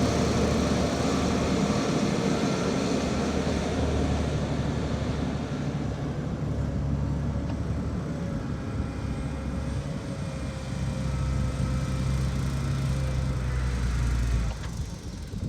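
Heavy diesel engine of earthmoving machinery running steadily, its low pitch shifting up and down with load, then dropping off shortly before the end.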